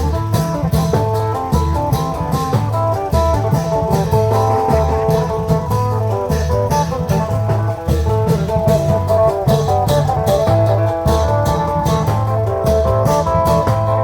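Isan klong yao long-drum procession band playing: a repeating plucked-string melody over deep, regular drum beats, with sharp cymbal strikes ticking steadily.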